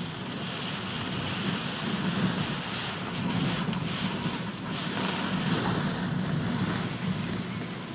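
Steady rushing noise of heavy typhoon rain and wind buffeting the microphone, with a low rumble underneath that swells and fades.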